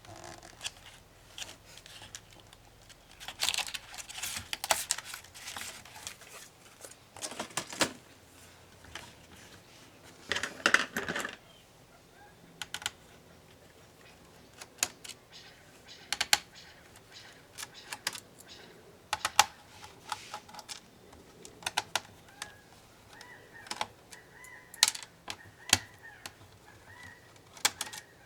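Irregular clicks, taps and short scraping of hand tools on an HP ProBook 450 G5 laptop's plastic case and parts during disassembly, with a few longer stretches of scraping.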